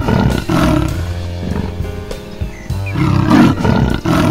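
A big cat roaring in two bouts of deep, rough roars, one at the start and another about three seconds in, over background music.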